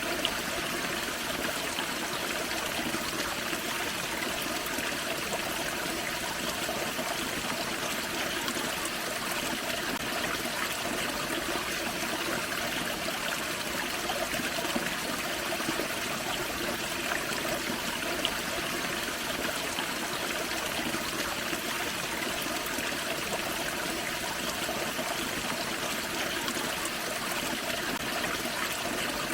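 A small forest creek waterfall: water splashing and trickling over rocks in a steady, even rush.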